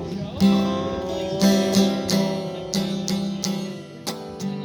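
Acoustic guitar strumming chords in a steady rhythm, with no voice over it, in a break between sung lines.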